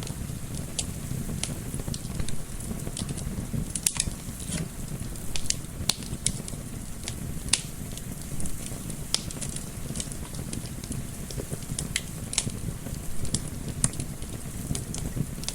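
Wood fire in a fireplace crackling, with irregular sharp pops several times a second, over a steady low rumble of gentle wind.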